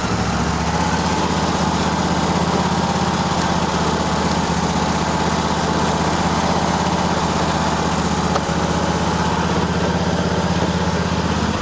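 Cub Cadet LT1050's 23 hp Kohler V-twin engine idling steadily but roughly, missing on the right cylinder. The owner suspects dirt in the carburettor, a bad spark plug or arcing plug wires.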